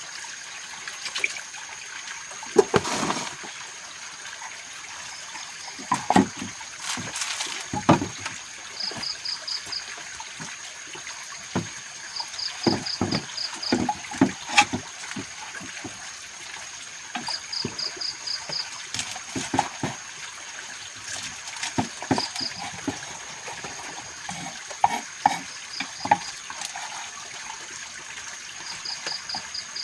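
Trickling water over a steady outdoor hiss, with a thin high insect-like drone throughout. A short run of five or six quick high chirps repeats every few seconds. Scattered sharp knocks and clicks, the loudest sounds, come from things being handled.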